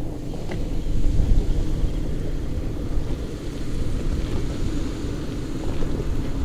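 Off-road SUV's engine running at low revs, a steady low rumble, as the truck creeps toward a line over boulders.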